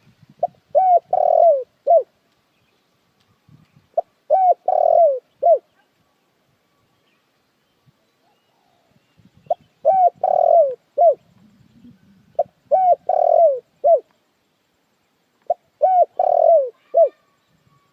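Spotted dove cooing: five phrases of a few short coos around a longer, drawn-out coo, repeated every few seconds with pauses between. It is the dove's song used as a lure call to draw in other doves.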